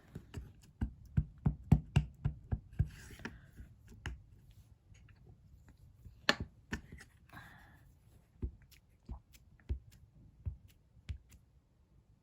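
Light clicks and taps of stamping supplies being handled and set down on a craft table: a quick run of about three or four a second for the first few seconds, then scattered taps, with a few soft paper rustles.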